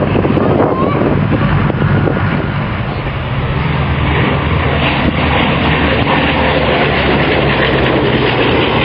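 Bristol Blenheim's twin Bristol Mercury radial engines running in a steady drone, with heavy wind noise on the microphone.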